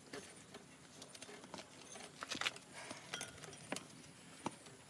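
Scattered light clicks and knocks of metal tools and parts being handled, irregular, the sharpest about halfway through.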